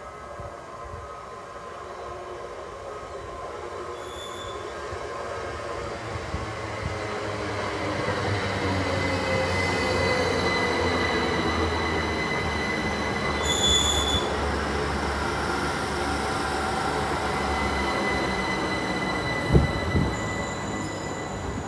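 A train running through a station, growing louder over the first half and then holding steady, with steady high-pitched tones over a low rumble. A single knock comes near the end.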